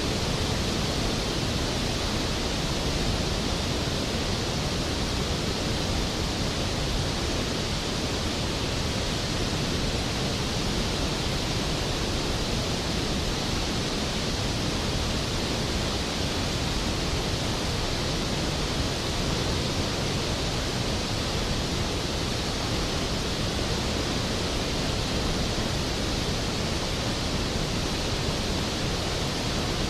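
Skógafoss waterfall: a large volume of water falling and crashing, heard as a steady, even rush with no let-up.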